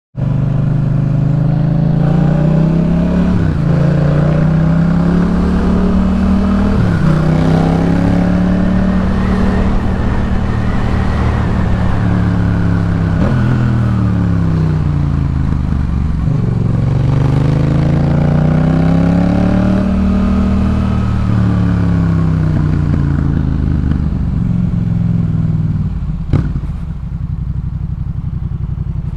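Yamaha MT-07's 689 cc parallel-twin engine through a Jeskap K4 full exhaust, pulling through the gears. The pitch climbs and drops at each shift, then falls away as the bike slows, and rises and falls once more. A sharp click about 26 seconds in is followed by steady lower running.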